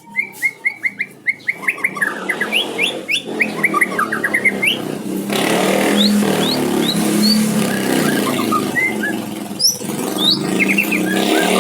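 White-rumped shama (murai batu) singing. It opens with a quick run of repeated chirps, then goes on in varied whistled phrases. A steady low background rumble lies underneath, louder from about halfway.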